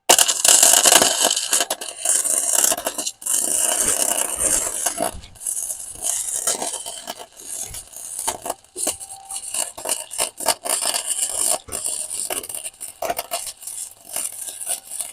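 Electric welding arc crackling and sputtering in one long, continuous bead with many brief breaks, starting and stopping abruptly, as weld is built up on a motor mount bracket.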